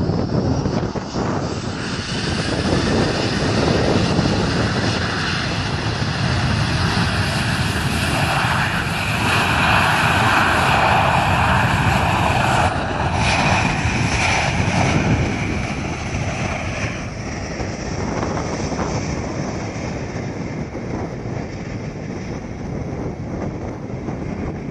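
Jet airliner's engines passing, a rumble with a high whine on top. The sound builds over about ten seconds, then fades as the aircraft moves away.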